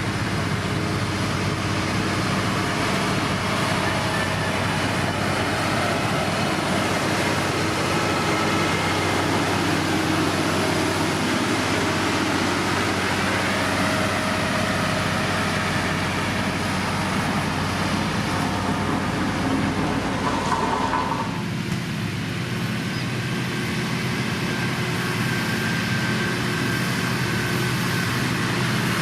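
Diesel engine of heavy road-building machinery running steadily, with a broad rushing noise over it that drops away about three quarters of the way through.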